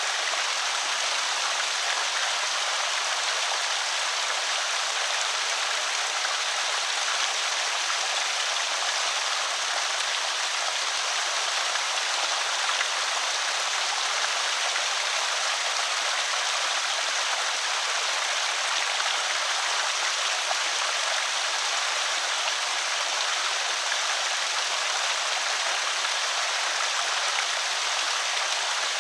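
Water splashing and trickling over a small creek spillway, a steady even rush with no change.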